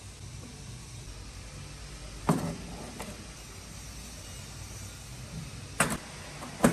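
Sharp knocks of hard objects being handled: one about two seconds in and two near the end, over a steady low hum.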